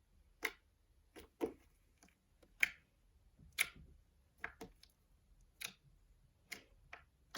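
Clear slime being squeezed and stretched by hand, giving sharp little clicks and pops at an irregular pace of one or two a second.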